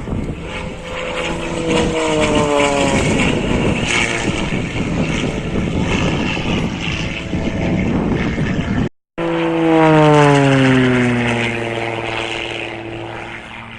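Propeller airplane flying past low, its engine note dropping in pitch as it goes by. The video cuts to a second, louder pass in which the pitch falls again and then holds steady as the plane moves away.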